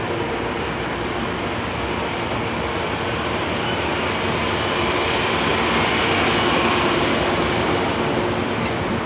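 Amtrak passenger train rolling past, a steady rush of steel wheels on rail and railcars, swelling slightly midway.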